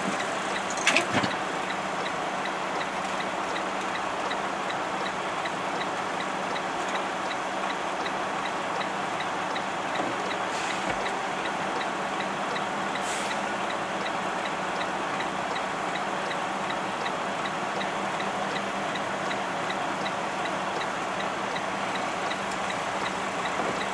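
Semi truck's diesel engine idling, heard inside the cab as a steady hum and rumble, with a faint fast regular ticking over it.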